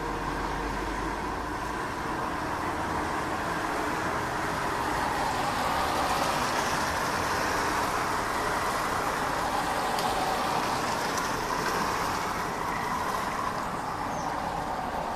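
Distant rumble of a jet airliner at cruising altitude, a steady noise that swells through the middle and eases off toward the end. A faint bird chirp near the end.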